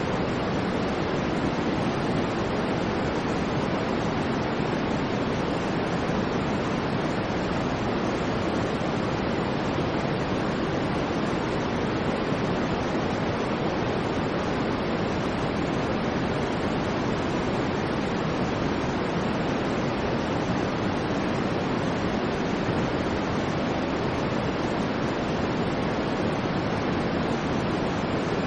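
Continuous generated white-noise track: an even, steady hiss with no swells or changes, fuller in the low-mid range than in the highs.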